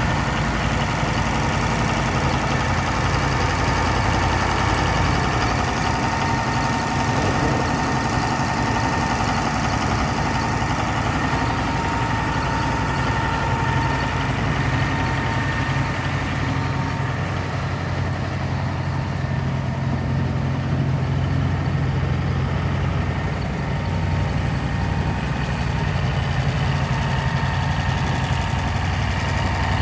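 The Versatile 900 tractor's Cummins 903 V8 diesel engine running at a steady idle.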